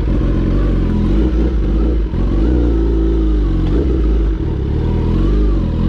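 Kawasaki ZX-10R's inline-four engine running, its pitch climbing and dropping twice as the revs rise and fall.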